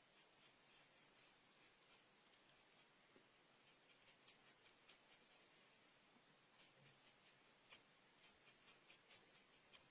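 Ink being dabbed and rubbed very lightly through a stencil onto card: a faint, irregular run of soft ticks and brushing, busier in the second half.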